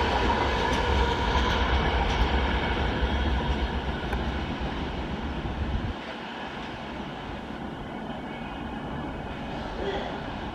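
Passenger express train rolling past on the rails, a steady rumble of coaches running by. About six seconds in the deep rumble drops off and the sound thins out and fades as the train moves away.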